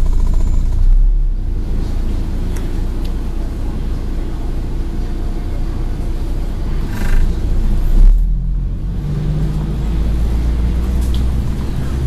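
Scania N113 bus's diesel engine running under way, heard from inside the bus as a steady low rumble. The sound changes briefly about a second in and again about eight seconds in.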